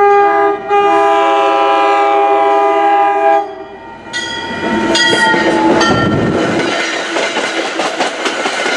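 A commuter train locomotive's multi-chime air horn sounds a short blast and then a long one of about three seconds. After a brief pause the horn sounds again as the train passes, followed by the rumble and clickety-clack of its wheels over the rail joints.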